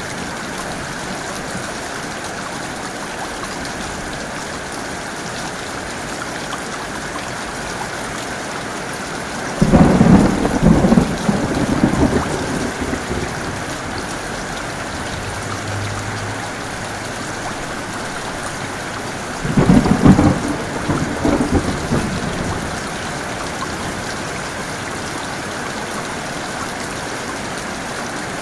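Steady heavy rain with two loud claps of thunder about ten seconds apart, each rumbling on for two to three seconds.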